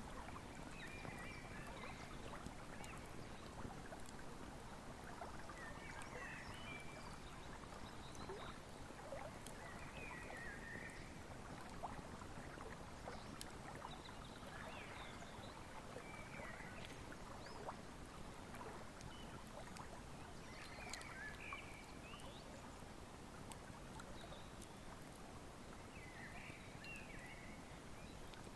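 Wood fire crackling with scattered sharp pops over the steady rush of a flowing river. Short animal calls recur every couple of seconds throughout.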